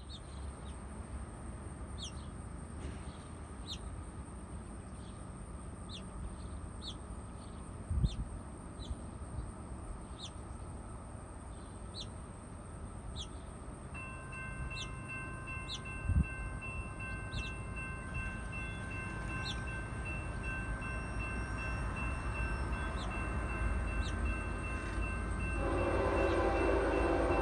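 A train approaching. A bird repeats a short falling chirp about once a second over a low rumble. Steady ringing tones start about halfway through, and near the end a louder train horn and rumble swell in.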